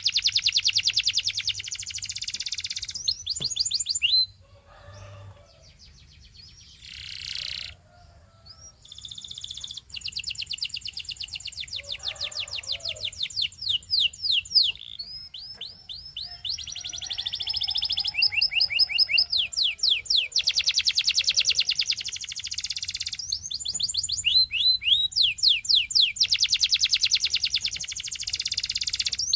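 Domestic canary singing: long rolls of fast, rapidly repeated high whistled notes, each run lasting a few seconds, with short pauses between them and a quieter lull about five to nine seconds in.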